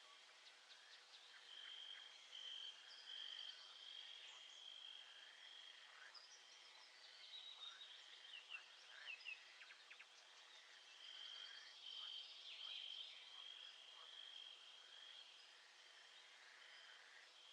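Faint nature soundscape of birds calling. A high, steady trill comes in for a few seconds near the start and again in the second half, with a flurry of quick chirps in the middle.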